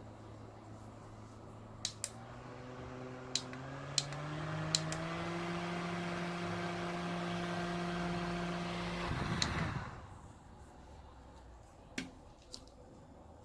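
Electric fan motor hum stepping up in speed in a few jumps, each jump with a sharp button click, then running steady at strong-wind speed. About nine seconds in, another click and the hum cuts out as the fan is switched off, leaving a couple of faint clicks.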